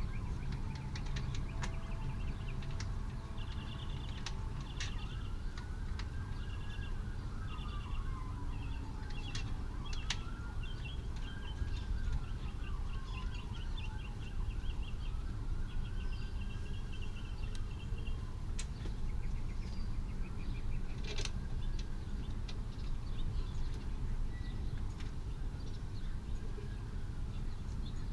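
A faint siren wailing, its pitch slowly rising and falling about every five seconds, over a steady low rumble, with birds chirping and a few sharp clicks.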